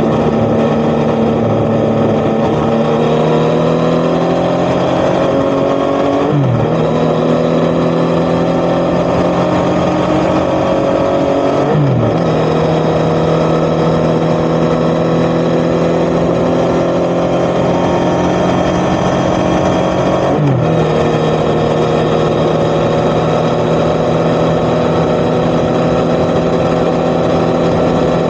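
Yamaha XSR900's three-cylinder CP3 engine through an Akrapovic titanium exhaust, pulling steadily under acceleration. The engine note climbs slowly, then drops sharply at three upshifts, about six, twelve and twenty seconds in.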